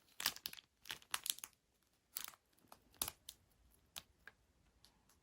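Slime being handled and pressed, giving crinkly, crackling noises in irregular bursts. The crackles are thickest in the first second and a half, then come singly every second or so.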